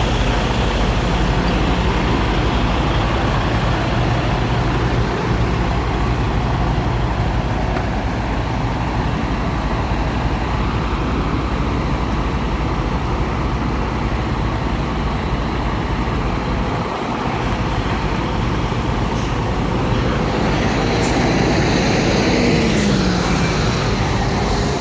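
Semi truck's diesel engine running steadily at low revs, with a brief shift in engine pitch and two short sharp sounds near the end.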